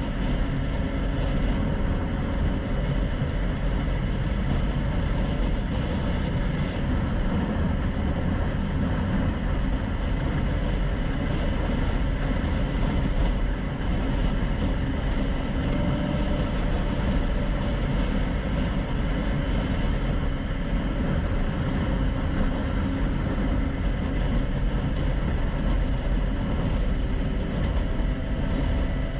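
Motorcycle riding at a steady pace: engine and rushing wind noise on the rider's camera microphone.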